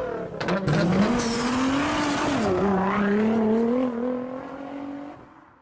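A car engine revving: its pitch rises, holds with a dip and a slow climb, then fades out near the end.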